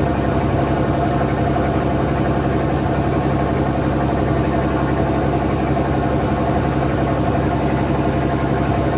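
A fishing boat's engine running steadily and loudly, heard on board, with an even, unchanging drone.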